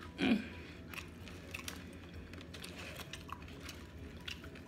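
Faint crunching of tortilla chips, scattered small crisp clicks as loaded nachos are chewed and picked from the plate, with a short vocal murmur near the start.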